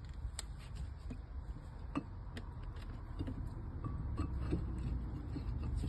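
Scattered light clicks and knocks of tools and brake parts being handled during front brake reassembly, over a steady low rumble.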